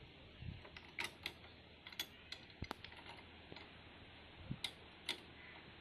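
Irregular light mechanical clicks and knocks, about a dozen spread unevenly over a few seconds, with a couple of soft low thumps, over faint background hiss.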